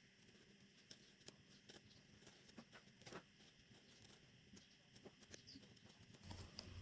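Near silence: faint room tone with a few scattered faint clicks, and a faint low hum starting near the end.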